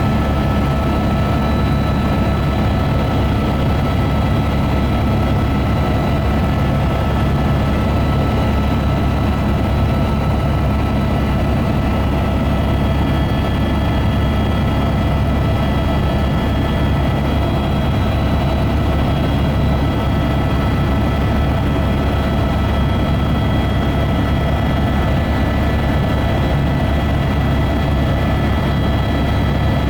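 Helicopter in flight: a steady, loud, low drone with several thin, high, steady whining tones over it, unchanging throughout.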